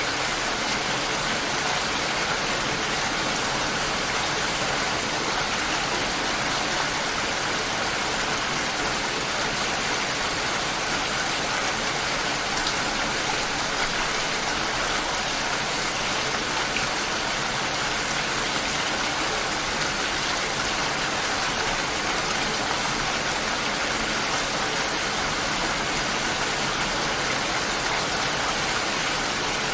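Steady light rain falling, an even, unbroken hiss with no thunder or music.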